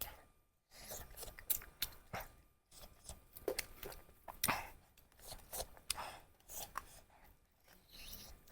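Eating sounds close to the microphone: irregular chewing and crunching, with small clicks and wet smacks.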